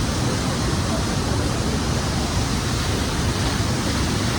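A waterfall rushing, a steady loud noise of falling water without a break.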